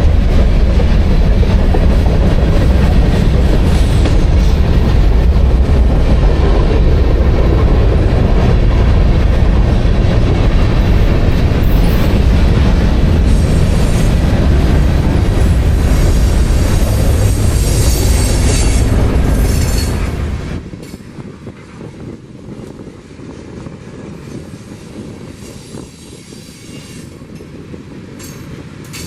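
Freight train rolling past close by, its wheels and cars making a loud, steady rumble with some high-pitched wheel squeal in the middle. About two-thirds of the way through the sound drops away sharply to a much quieter level.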